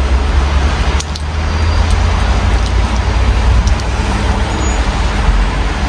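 Steady rain heard through an open window onto a city street: a dense even hiss of rain over a constant low rumble of road traffic, with a few faint ticks now and then.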